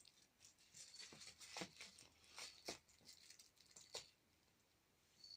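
Faint, irregular clicks and rustles of a cat biting and chewing at a flamingo toy, over about four seconds.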